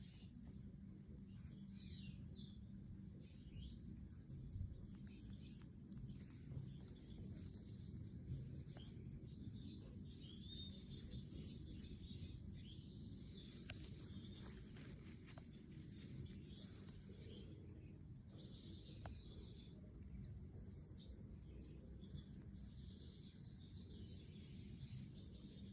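Faint chirps and twittering calls of European goldfinches, with a quick run of high repeated notes about five seconds in, over a steady low hum.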